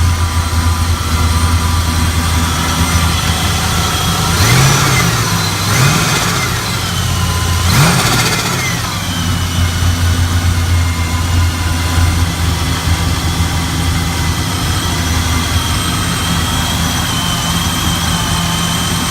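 A 5.3-litre LS V8 idling in a 1978 Chevy Caprice, blipped three times at about four, six and eight seconds in, each rev rising and falling back to idle. A faint high whine sits over the idle near the end.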